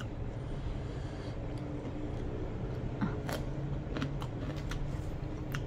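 Someone chewing food with a few faint sharp clicks, over a steady low hum.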